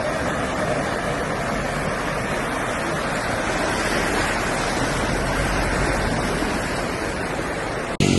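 Steady rushing water noise, even and unbroken, cut off abruptly near the end.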